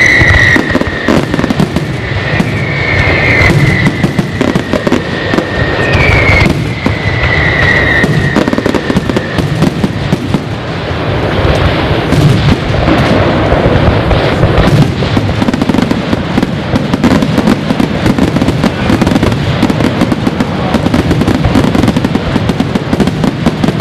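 Aerial fireworks display going off continuously: dense bangs and crackling, with high whistling tones over the first several seconds.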